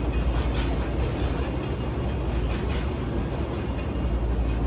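Container wagons of a long freight train rolling away over the rails: a steady low rumble with a few irregular clacks as the wheels cross rail joints.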